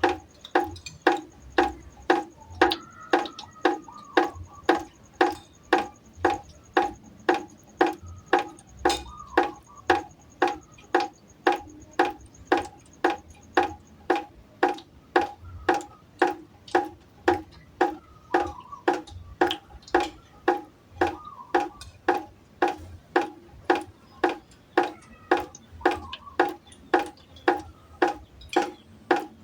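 Water dripping steadily into a pot, each drop landing with a short ringing plink at the same pitch, nearly two drops a second in an even rhythm.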